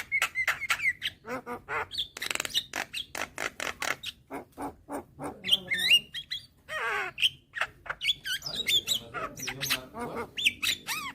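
Young white-eyed Javan myna (jalak kebo) singing a rapid, varied song of quick clicks, whistled notes that rise and fall, and harsh squawks.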